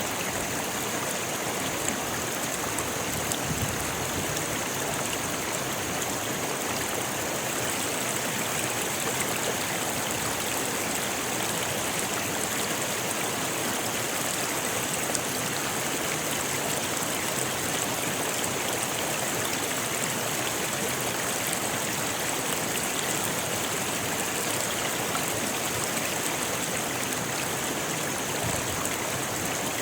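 Rocky river flowing steadily: a continuous rushing of water over stones, with fine splashes and trickles.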